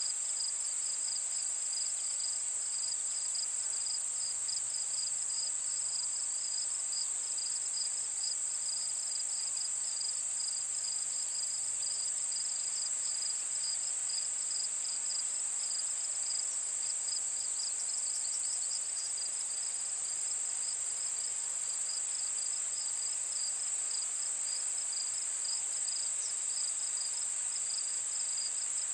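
Chorus of insects: a steady high-pitched buzz with a rapid pulsing chirp just below it, keeping on without a break.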